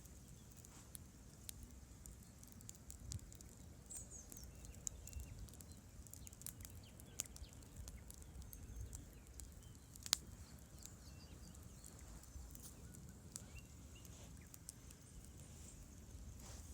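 Campfire wood crackling: scattered sharp pops and snaps, one louder snap about ten seconds in, over a faint low rumble.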